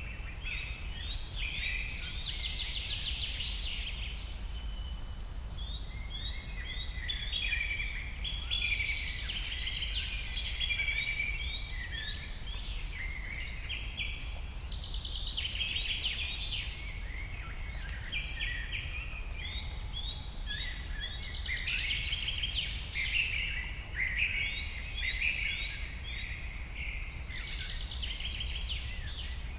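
Many small birds chirping and calling over one another without pause, above a steady low rumble.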